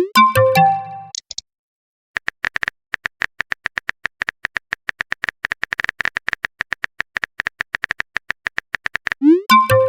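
Quick, irregular clicks of a phone's on-screen keyboard typing out a message. A short rising swoop and chime, a message-sent or message-received alert, sounds at the start and again about nine seconds in.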